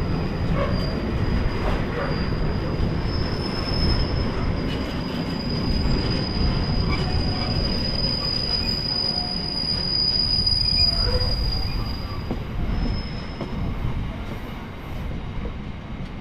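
Train running on the rails with a steady high-pitched wheel squeal over a heavy low rumble. The squeal dies away about twelve seconds in and the rumble eases.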